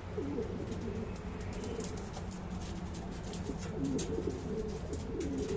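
Several racing pigeons cooing, many short low calls overlapping, with scattered light clicks and rustles among them.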